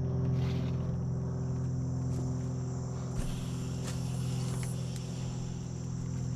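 A steady machine hum runs throughout, with crickets chirping high and steady behind it.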